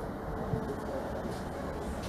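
Train running, a steady low noise with a faint steady tone that fades in the first moments.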